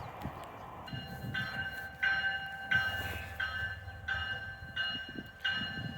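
Locomotive bell ringing steadily, about three strikes every two seconds, starting about a second in, over a faint low rumble of a train.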